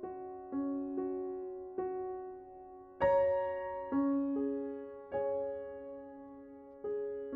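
Slow, gentle solo piano background music: notes and chords struck every second or so, each left to ring and fade, with a louder chord about three seconds in.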